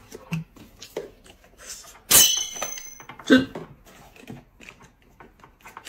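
Handling noises of a cardboard gift box being opened and tableware at a table: small clicks and taps, with one louder sharp clink about two seconds in that rings briefly, and a short vocal sound just after three seconds.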